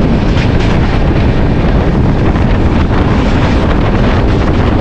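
Loud, steady wind buffeting a microphone held out of a moving passenger train's open door, over the rumble of the train running on the track.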